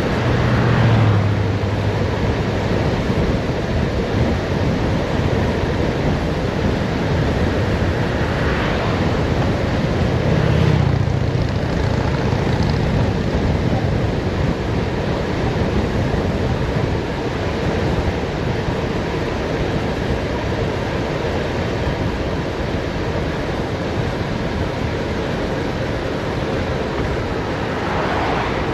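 Steady rush of wind over the microphone from a fast downhill bicycle ride. A low rumble swells briefly about a second in and again around ten seconds in.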